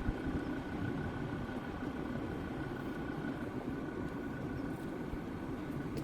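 Jeep Grand Cherokee WJ's 2.7 CRD five-cylinder diesel engine running steadily, with a faint steady high whine over it.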